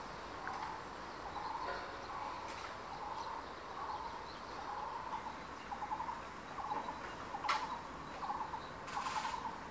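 A bird calling a steady run of short, low, buzzy notes, several every second, over forest background noise. A sharp click comes about seven and a half seconds in, and a brief rustle near the end.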